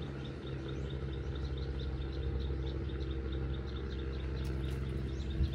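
Rapid, evenly spaced high chirps from a bird, about four or five a second, over a steady low engine hum; a short knock near the end.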